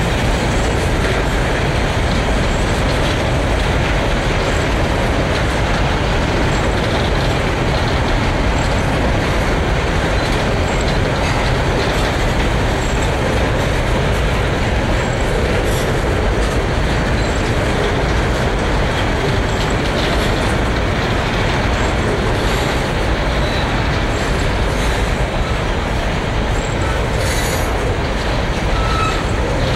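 Long freight train of covered hopper wagons rolling past at close range: a steady loud rumble and rattle of wheels on the rails, with brief high wheel squeaks now and then.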